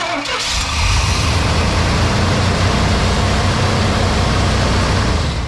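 Old Chevy pickup's engine running steadily and loudly just after firing up for the first time in almost a year of sitting. It rises in level about half a second in.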